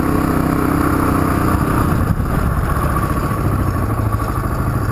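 Suzuki DR350 single-cylinder four-stroke dirt bike engine running under way. Its note holds steady, then drops to a lower, rougher beat about two seconds in.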